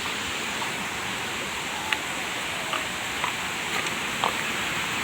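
Steady rush of the Bantimurung waterfall's water, with a few faint clicks over it.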